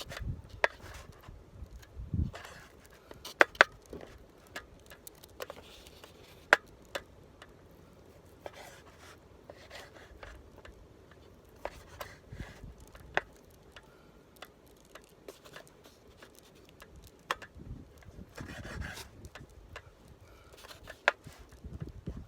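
Gear being handled: scattered light clicks and knocks with rubbing and scraping. The loudest knocks come about three and a half seconds in.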